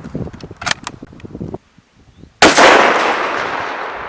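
A single sniper rifle shot about two and a half seconds in: a sharp crack followed by a long echo that fades away slowly.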